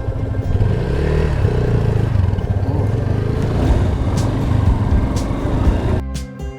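Motorcycle engine running steadily while riding. Background music cuts in near the end.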